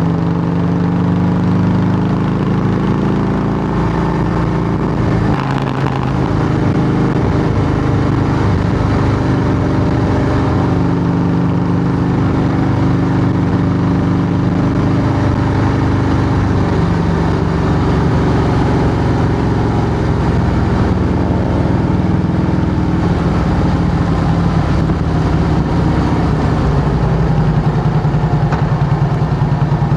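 2008 Harley-Davidson Heritage Softail's Twin Cam 96B V-twin running loud through Samson fishtail true-dual exhaust pipes. The pitch shifts a little in the first several seconds, then holds steady. Near the end it falls into a regular pulsing beat.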